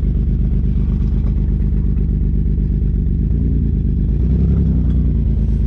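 Ford Taurus SHO's 3.5-litre EcoBoost twin-turbo V6 running at low speed while the car is slowly manoeuvred, a steady low engine rumble that rises slightly in pitch for a moment about three to four seconds in.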